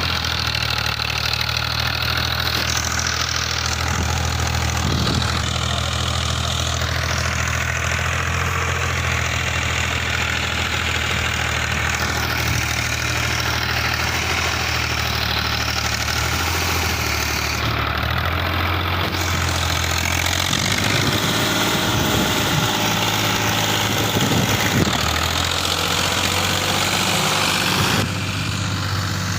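Fiat tractor's diesel engine running at a steady speed. About two-thirds of the way in, its tone drops lower and turns uneven, with irregular knocks.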